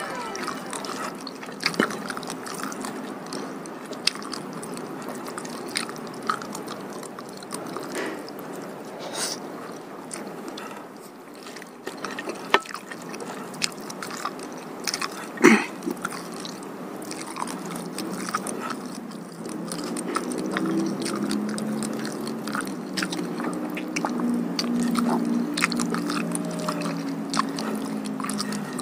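Close-miked chewing of soft boiled vegetables in peanut sauce, with wet mouth smacks and small sharp clicks. For the last several seconds a low steady hum runs under the chewing.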